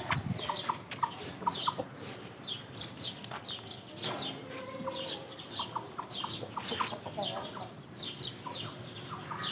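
Chickens clucking, with many short, high chirps repeated throughout.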